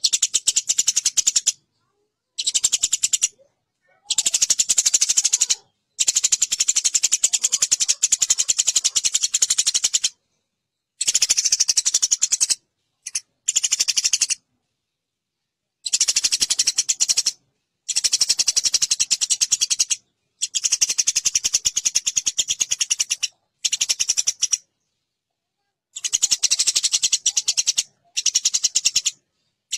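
Eurasian tree sparrows chattering harshly and rapidly while fighting. The calls come in about a dozen bouts of one to four seconds, each starting and stopping abruptly with silent gaps between.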